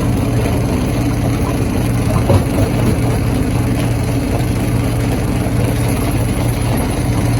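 Stone crusher running with a steady heavy mechanical drone, with a brief knock from the crushing about two seconds in.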